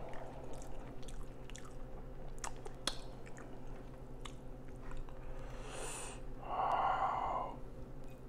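Close-miked chewing of a mouthful of noodles, with small sharp clicks from the mouth, over a steady low hum. About six and a half seconds in comes a louder breathy noise lasting about a second.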